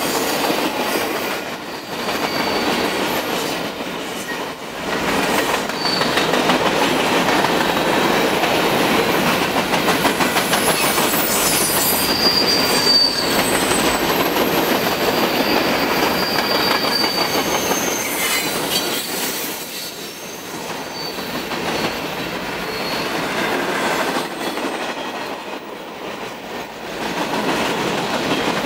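Freight cars of a manifest train rolling past: a steady rumble of steel wheels on rail, with brief high-pitched wheel squeals now and then.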